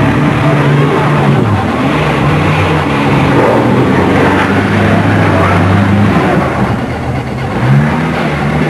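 Car engines running and revving as old saloon cars are driven around in a yard demolition derby, the pitch shifting with the throttle and rising in a rev near the end.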